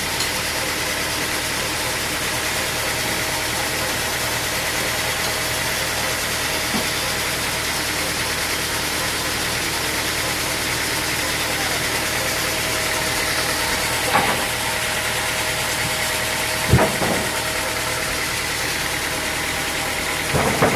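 An engine running steadily at a constant speed, with three sharp knocks in the second half.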